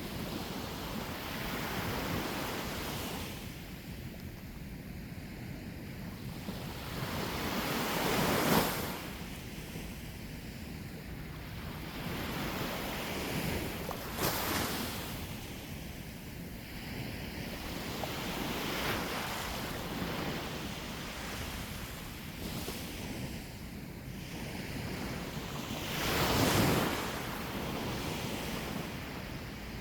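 Sea waves breaking and washing on the shore in rising and falling surges, loudest about eight seconds in and near the end, with wind buffeting the microphone.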